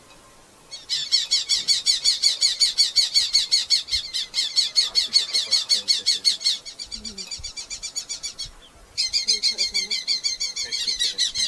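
Red-footed falcon giving a fast chattering series of sharp, high calls, about eight a second. It starts about a second in, goes quieter for a couple of seconds past the middle, breaks off briefly, then comes back loud near the end.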